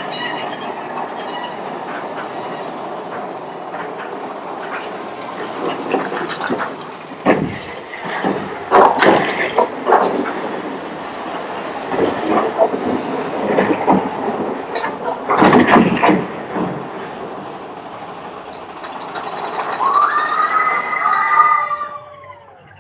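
Big Thunder Mountain Railroad mine-train roller coaster running along its track, with a steady rumble and repeated clattering jolts. A squealing tone bends through about a second near the end, and then the noise drops off suddenly.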